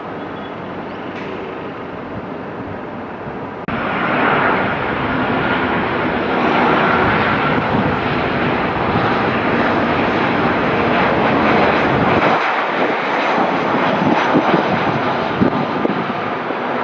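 Engines of a landing airliner passing close, a loud steady rush with a faint whine. The sound jumps up suddenly about four seconds in and stays loud.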